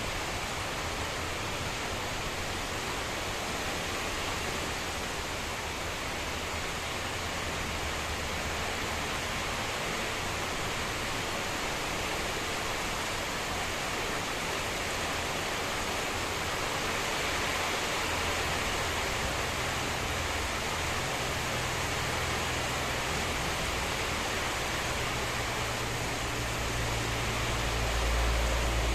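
Heavy rain pouring steadily in a storm with strong wind, and a low rumble of gusts that comes and goes and swells loudest near the end.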